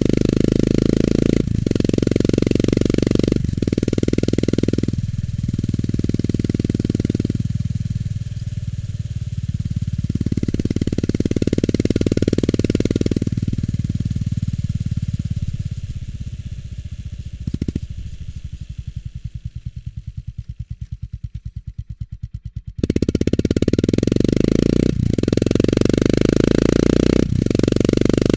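Honda GB350S's single-cylinder engine through its stock muffler while riding: it pulls strongly, with several dips in level as the throttle closes and it shifts. It then slows and drops to a low idle where the separate exhaust pulses can be heard one by one. Then it is loud again with a sudden jump a few seconds before the end.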